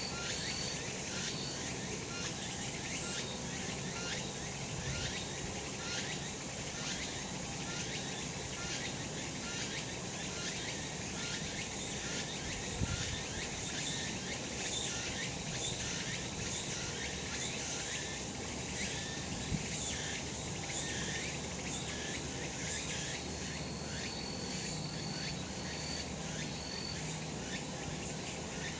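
Cicadas singing in a steady, high-pitched chorus with a regular pulsing. Short repeated high notes come in near the start and again about three-quarters of the way through.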